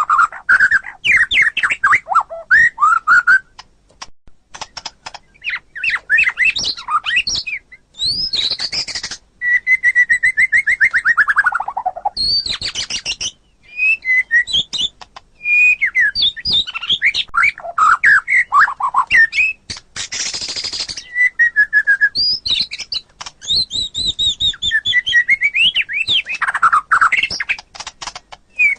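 White-rumped shama (murai batu) singing a varied song of short whistled phrases, trills and rapid chattering notes with brief pauses between them. About ten seconds in it gives a long series of notes that slide down in pitch.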